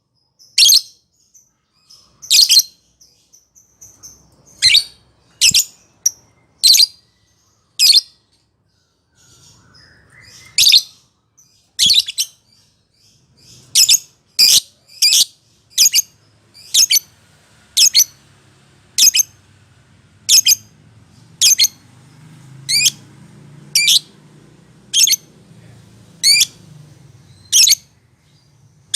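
Lovebird giving short, sharp high-pitched chirping calls over and over, with a pause about eight seconds in, then settling into a steady run of about one and a half calls a second.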